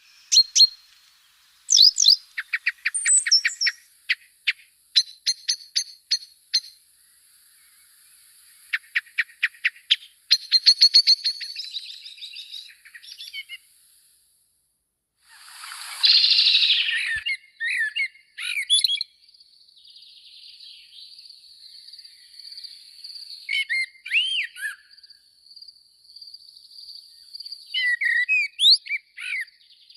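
Small birds calling: quick series of short, high chirps and trills, with a brief rushing noise about halfway through. A faint, steady high whine runs under the calls in the second half.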